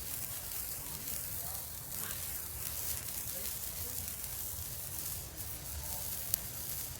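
Small consumer ground firework burning with a steady hiss as it throws sparks, with one sharp pop about six seconds in.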